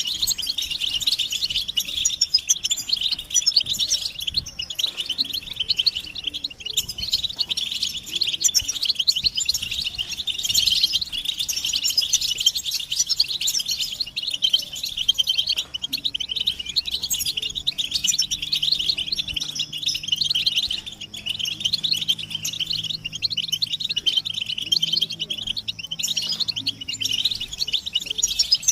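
Many European goldfinches twittering and singing together in a dense, unbroken chorus of rapid chirps. These are excited male mating and readiness calls, of the kind played to stir a silent goldfinch into song.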